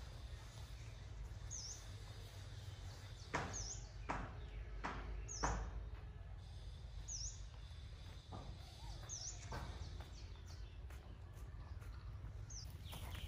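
A bird repeating one short, sharp, high chirp about every two seconds, six times, with a few light knocks a few seconds in.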